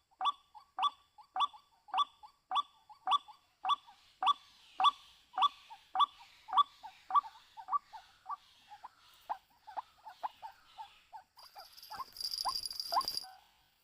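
White-breasted waterhen calling: a short, throaty note repeated about twice a second, the series growing weaker and quicker in its second half. Near the end, a brief noisy scuffle rises over the last calls.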